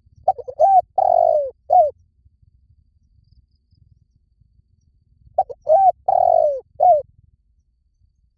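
Spotted dove cooing: two calls about four seconds apart, each a quick run of short coos with one longer, falling note near the end.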